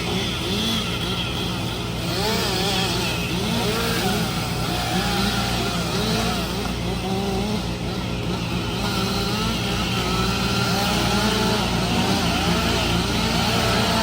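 Engine of tree-removal equipment running steadily, its pitch wavering up and down.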